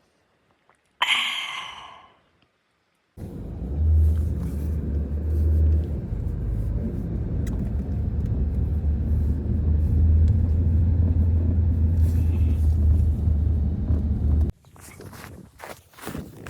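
A loud, steady low rumble that cuts in abruptly about three seconds in and stops suddenly near the end. It is preceded by a short, sharp, bright sound about a second in.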